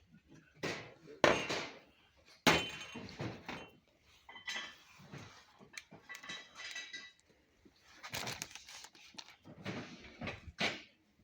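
Dishes clinking and knocking together as they are handled, a string of irregular sharp clinks, some ringing briefly.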